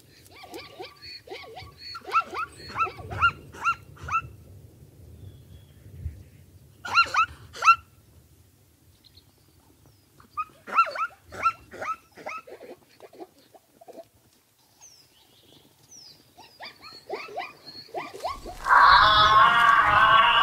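Plains zebra barking: bouts of short, sharp, yelping calls a few a second, repeated several times. Near the end a louder, continuous sound takes over.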